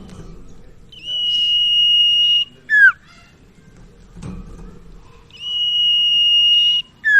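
Common iora (sirtu/cipoh) singing its long whistled song: twice, a steady held whistle of about a second and a half, each ended by a short, sharply falling note.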